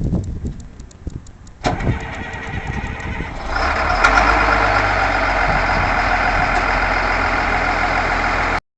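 Caterpillar 950H wheel loader's diesel engine being started: uneven low knocking as it cranks, catching about two seconds in and settling into a steady, louder run from about three and a half seconds in. The sound cuts off suddenly near the end.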